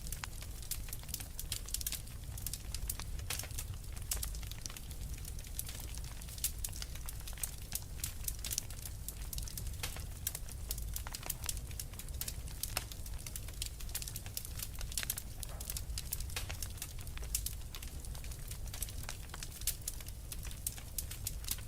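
Wood fire crackling steadily, with many small sharp pops over a low rumble of the flames.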